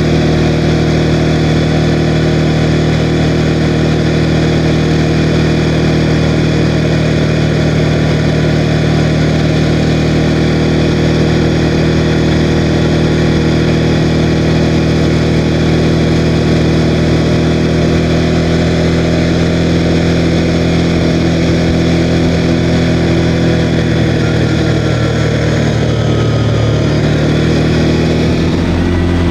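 CFMOTO CForce 520L ATV's single-cylinder engine running steadily while riding, with the engine speed easing off slightly near the end.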